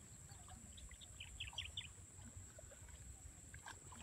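A bird gives a quick run of short, high chirps about a second in, over a faint outdoor background with a low rumble of wind.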